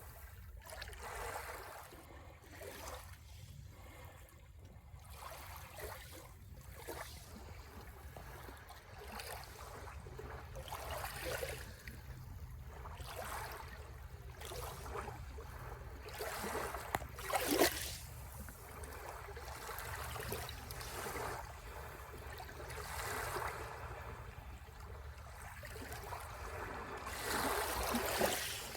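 Sea waves washing onto the shore, the surf rising and falling in repeated surges. A louder wave breaks a little past halfway.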